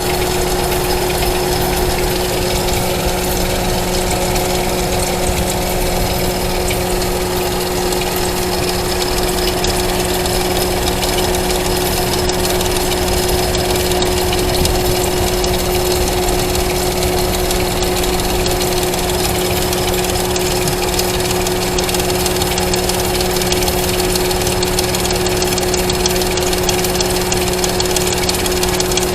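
Ford Mustang's overhead-cam engine idling steadily with its valve covers off, running kind of rough. The owner traces the noise to the timing chain tensioner or guide.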